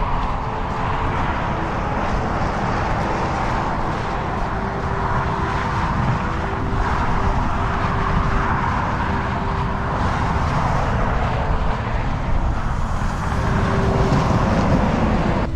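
Strong wind buffeting the microphone: a steady, loud rumbling roar with gusts swelling and easing, and faint held tones underneath.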